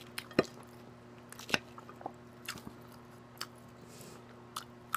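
Close-miked chewing of a mouthful of lettuce salad: short, sharp crunches and wet mouth clicks every second or so.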